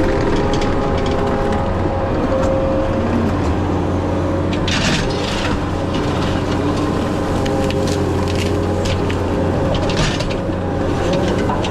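Tracked skid steer's engine running steadily as the machine works, with short bursts of scraping and crunching about 5 and 10 seconds in.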